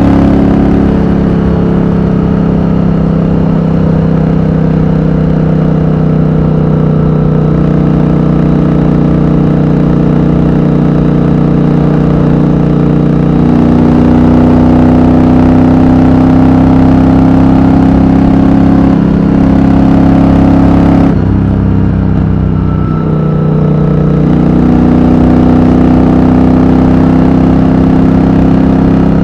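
Triumph Thunderbird Storm's 1700 cc parallel-twin engine running steadily under way at speed. Its note climbs slightly about halfway, drops briefly a little past two-thirds through, then picks up and holds again.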